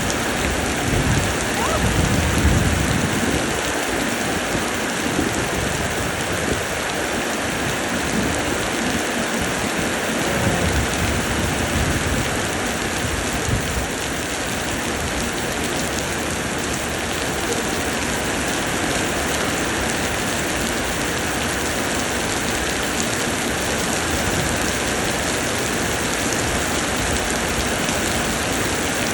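Steady summer rain pouring down, an even hiss of rainfall. A low rumble comes and goes through the first half.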